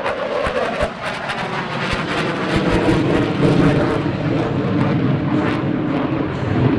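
Boeing F/A-18 Super Hornet's twin turbofan engines, heard as loud, steady jet noise with a rapid crackle as the jet flies its display.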